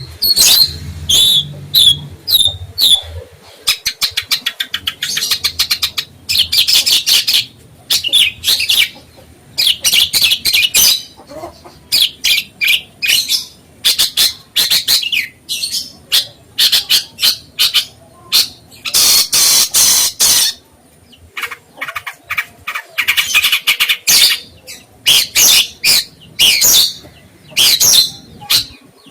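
A songbird singing loudly in rapid runs of chirps and trills, broken by short pauses, with one longer, louder burst about two-thirds of the way through.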